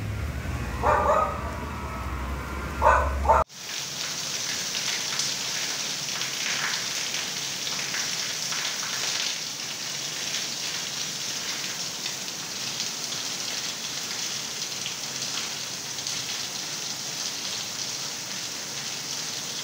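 Heavy rain falling in a steady hiss. In the first few seconds there is a low hum under the rain and a dog barks twice. A few seconds in, the sound cuts to a second recording of a downpour with a brighter, even hiss.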